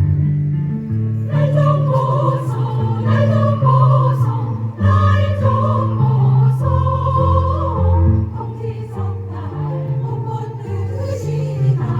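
A choir singing over an instrumental accompaniment with prominent bass notes; the voices come in about a second in.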